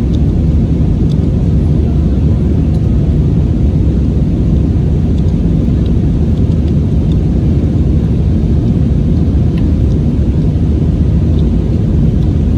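Steady low rumble of an Airbus A320-232's IAE V2500 engines and the airflow, heard from inside the passenger cabin.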